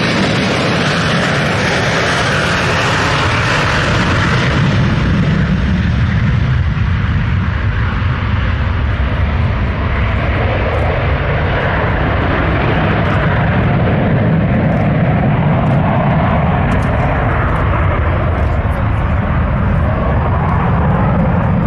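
Boeing 727's three rear-mounted Pratt & Whitney JT8D turbofans at take-off power, a steady jet noise with deep rumble. The hissing top end fades after about five seconds as the jet goes past and draws away, while the low rumble carries on.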